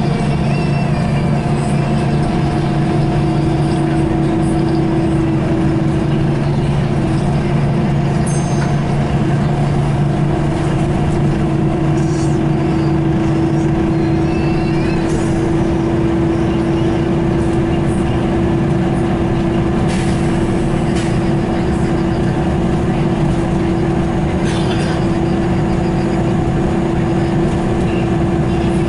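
Scania L94UB bus's engine and ZF automatic gearbox running steadily under way, a constant droning note with a pitch change a few seconds in.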